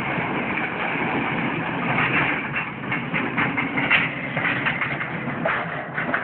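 Heavy demolition machine's diesel engine running steadily under load while building debris cracks and crunches in many short clicks and knocks.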